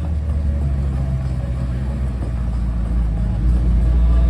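A car engine running steadily with a deep, low rumble, getting slightly louder about three and a half seconds in.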